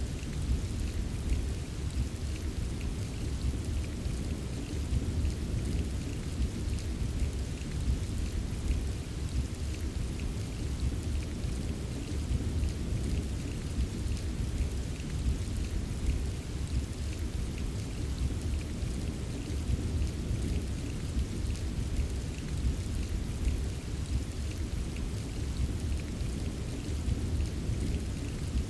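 Steady heavy rain with a deep continuous rumble underneath and a light patter of drops.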